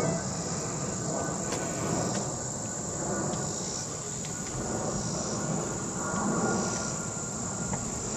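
A steady, high-pitched insect chorus drones over a low background rumble.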